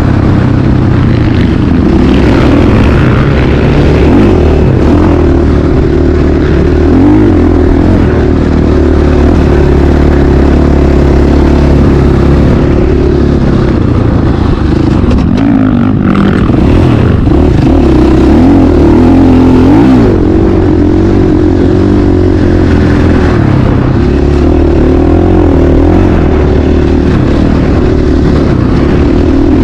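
Motocross dirt bike engine running loud and continuously, its pitch rising and falling as the throttle is worked.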